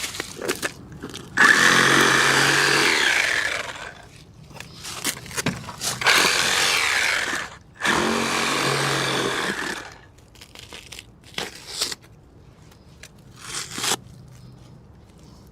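A power saw cutting wood in three runs of about two seconds each, followed by a few scattered knocks and clatter.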